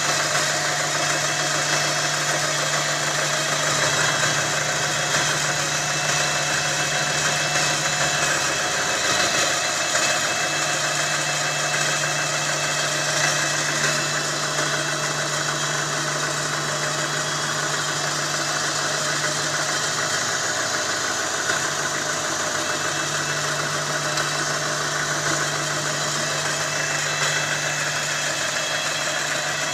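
Hyundai Accent's 1.3-litre fuel-injected four-cylinder petrol engine (G4EA) idling steadily.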